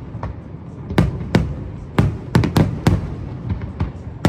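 Aerial fireworks shells bursting in irregular succession: sharp bangs, each trailing a low rumbling echo, with a quick cluster of several bangs midway.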